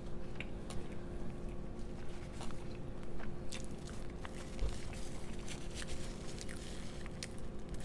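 Close-miked chewing of a mouthful of fried chicken sandwich, with irregular small wet mouth clicks over a steady low hum.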